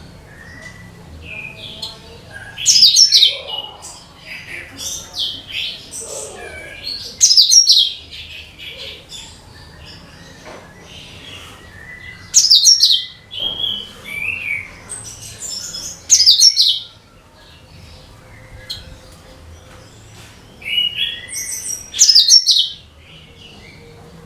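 Cucak kinoi singing: short, loud phrases of rapid high notes come about every four to five seconds, with softer chirps between them.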